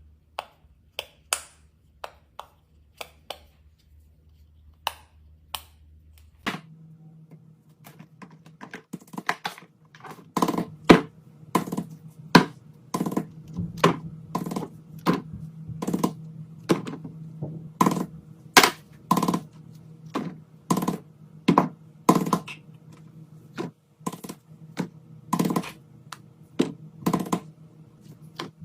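A run of sharp clicks and taps from small objects being handled, sparse at first and then about one or two a second, over a low steady hum that changes about six seconds in.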